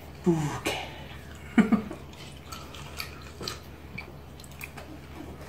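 Close-up eating sounds: wet chewing and lip smacks with small clicks of metal chopsticks as food goes into the mouth, with a short, louder voiced mouth sound about a second and a half in.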